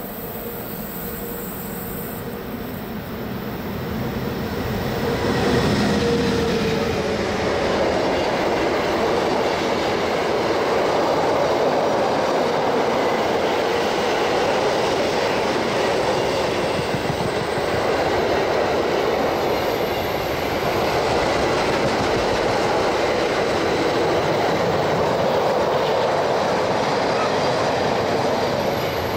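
A train on the Semmering railway rolling through, its wheel-on-rail noise swelling about five seconds in and then holding as a steady, loud rumble and clatter.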